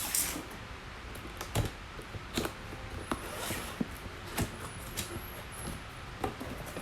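Scattered clicks and knocks, about one a second, as a cordless drill set and its packaging are handled.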